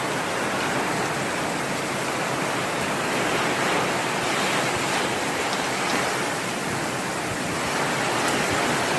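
Torrential rain and gusting wind of a severe thunderstorm squall line, a steady loud rushing hiss with no let-up.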